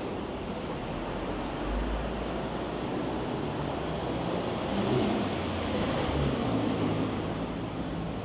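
A motor vehicle's engine passing close by over steady street noise, loudest about five seconds in.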